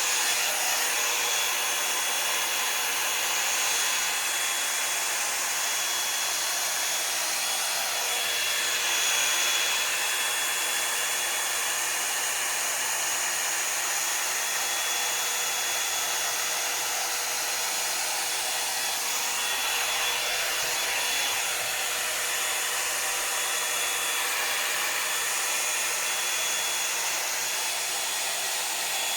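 Revlon One-Step hair dryer and volumiser (hot-air brush) blowing continuously: a steady rush of air with a high, even motor whine over it.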